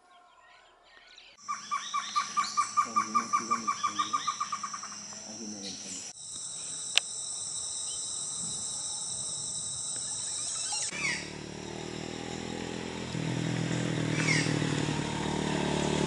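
Wild birds calling outdoors. About a second and a half in comes a rapid run of some twenty evenly repeated call notes, about six a second, that fades after a few seconds. Then a steady high-pitched drone sets in, and after an abrupt change near the end come a few short chirps over a low rumble.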